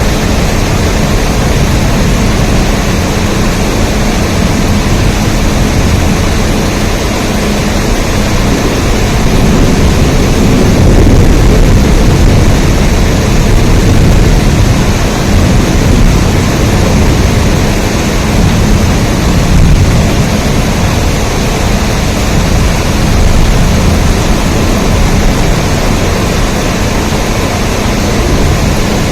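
Steady, loud rain noise with a deep low rumble, swelling slightly in the middle and easing again, with no separate drops or claps standing out.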